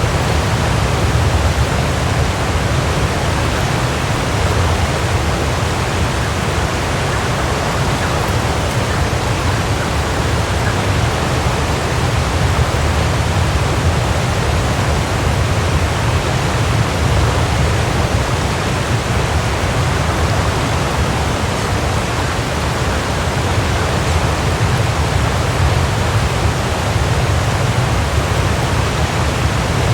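Waterfall rushing: a steady, even roar of falling water with a deep low rumble and no breaks.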